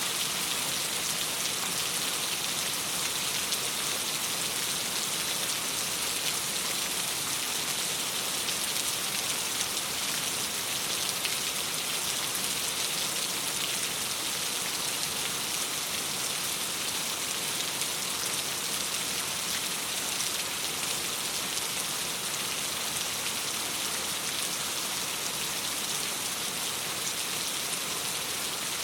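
Steady rain falling, a dense even hiss that holds at one level throughout.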